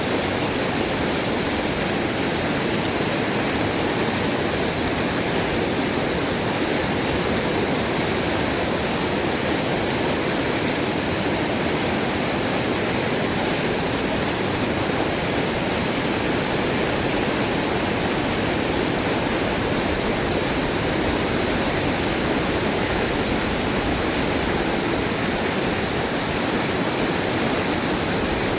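Fast-flowing river water rushing, a steady, unbroken roar.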